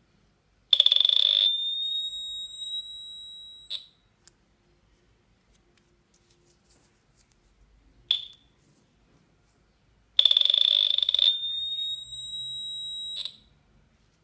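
Delta Pulse 3S gold detector giving its target signal for gold: a loud high electronic tone, harsh at first and then steady and rising slightly, lasting about three seconds. It sounds twice, with a short chirp between.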